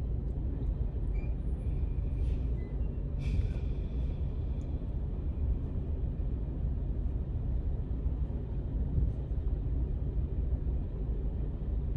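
A 12-year-old Toyota's engine running with a steady low rumble while the car shakes. The shaking is a fault that has come back even after a new engine was put in.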